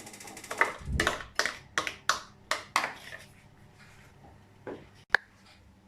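A spoon scraping and knocking against a bowl as ginger-garlic paste is spooned in: a run of about seven quick strokes over the first three seconds, then a single sharp click near the end.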